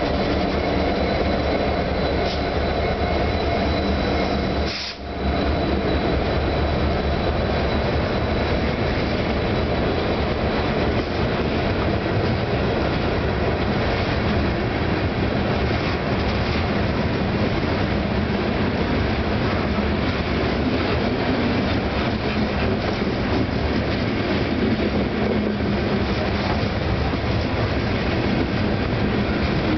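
A Norfolk Southern diesel locomotive's engine is heard in the first few seconds, and then a long string of loaded stone hopper cars rolls past close by. It is a steady rumble with clatter of steel wheels on rail, broken only by a momentary drop-out about five seconds in.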